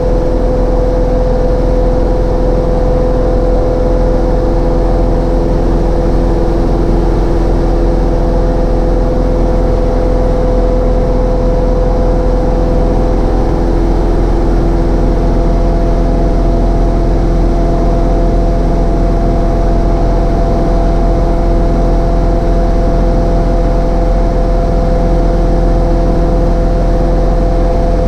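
Cessna 152's four-cylinder Lycoming O-235 engine and propeller running at steady power, a loud, unchanging drone with a few steady tones in it.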